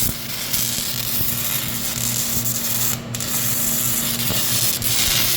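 Handheld gasless 120-volt welder's arc crackling and hissing steadily, with a brief drop-out about three seconds in. A steady low hum runs under it and stops near the end.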